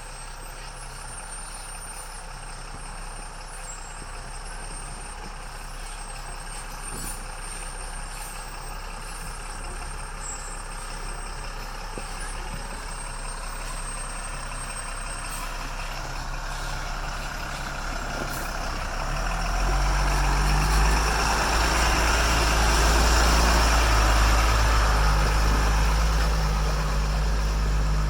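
Diesel engine of an M1079 LMTV expedition truck running as it drives off-road, growing steadily louder; about two-thirds through it becomes much louder and deeper, with loud rumble and rough noise.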